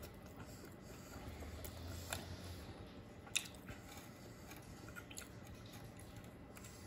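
Faint chewing and biting on food, with scattered small clicks. The loudest is one sharp click a little over three seconds in.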